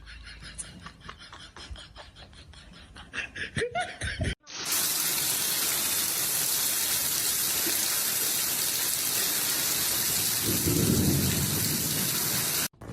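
Faint rapid ticking with a few short rising squeaks, then, about four seconds in, a sudden loud steady rush of falling water that runs for about eight seconds, swells with a low rumble near the end, and cuts off abruptly.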